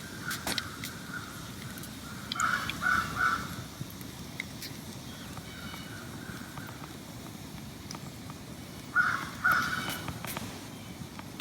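A bird calling: a run of three short calls a couple of seconds in and another run near the end, over a steady low rushing background with a few sharp clicks.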